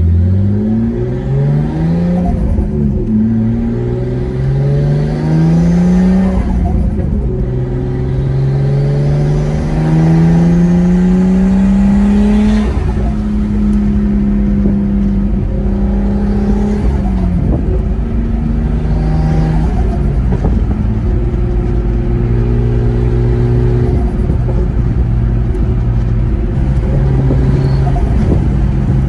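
Nissan Skyline R32 turbocharged straight-six, its exhaust straight-piped behind the catalytic converter, accelerating through the gears. The pitch rises and drops back at each upshift over the first dozen seconds, then holds fairly steady at cruise, with a brief dip partway through.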